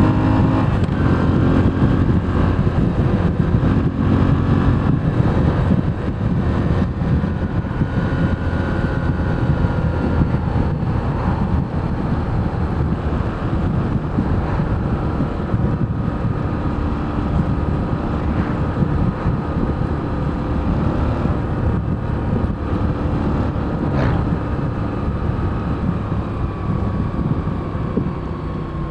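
Moto Guzzi V7 Special's 853 cc air-cooled transverse V-twin running under way at a fairly steady speed, with wind rushing past the microphone. It gets gradually quieter toward the end.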